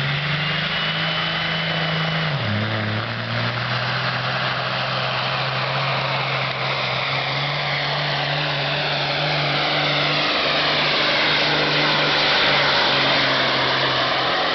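Pulling truck's engine running hard at full throttle under load down the track. Its pitch drops sharply about two seconds in, then holds steady and loud.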